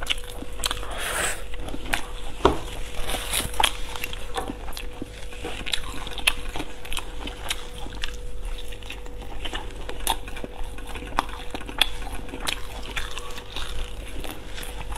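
Close-miked eating: a person biting and chewing fried chicken cutlet and sausage, with many short irregular mouth clicks and smacks. A faint steady hum runs underneath.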